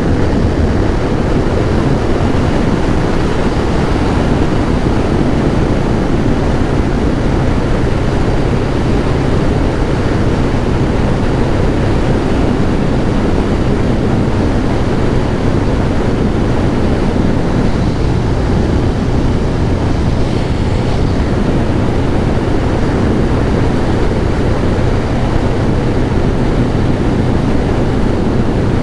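Kawasaki ZX-11 Ninja's inline-four engine running at a steady cruise under a heavy rush of riding wind on the microphone.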